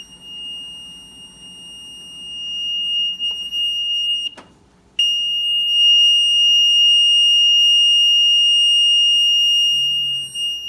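Maytag Neptune front-loading washer's control panel sounding a continuous high-pitched beep. It cuts out with a click about four seconds in, then comes back loud and unbroken. The owner takes this for a faulty control panel.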